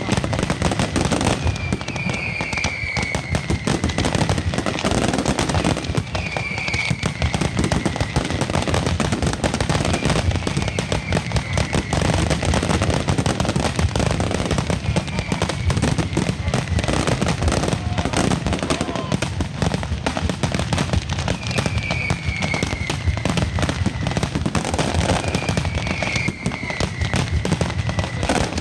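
Valencian night mascletà (nocturna) fireworks: a dense, unbroken crackle of firecrackers going off in rapid succession. Falling whistles from whistling fireworks sound every couple of seconds over the crackle.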